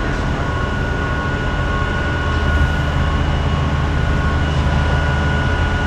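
Heavy diesel machinery running steadily under load during a crane lift: a constant low rumble with a steady high-pitched whine over it.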